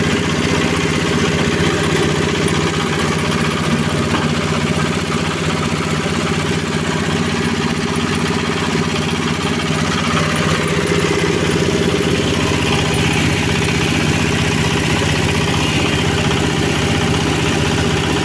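Dried-fish grinding machine (a powered flour mill) running steadily, its motor giving a constant, even drone.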